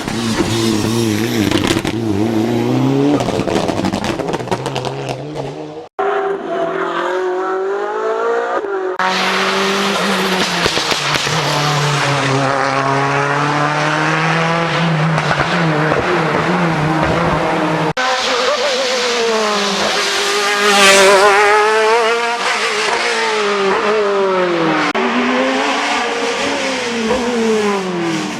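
Racing car engines at full throttle on a hill climb, the pitch rising through each gear and dropping at the shifts and lifts. Abrupt cuts about a third of the way in and again past the middle switch from one car to another.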